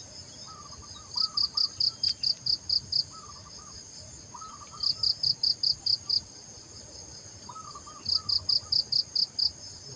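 An insect chirping in three bursts of rapid, high-pitched pulses, about six a second, each burst lasting a second or two. Faint short bird calls sound in between.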